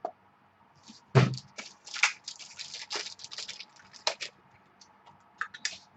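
Trading-card packaging and cards being handled, with a run of crinkling and crackling plastic and a knock about a second in, then a few more crinkles near the end.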